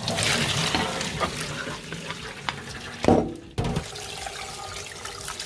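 Kitchen tap running onto soaked rice vermicelli, rinsing the noodles to stop them cooking. About three seconds in there is a louder knock and the flow breaks off for a moment, then it runs on.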